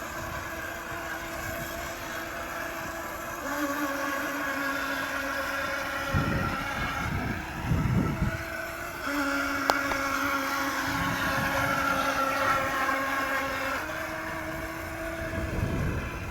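Twin electric motors of a toy RC speed boat running with a steady whine that steps down and up in pitch a few times. There are brief low rumbling bursts in the middle and near the end.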